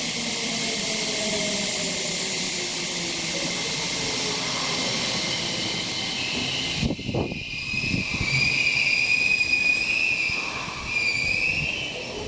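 Electric train on the Tokyo Metro Fukutoshin Line slowing down, its motor tones falling in pitch over rolling noise. About seven seconds in there is a thump, and high, wavering squeals follow as it brakes toward a stop.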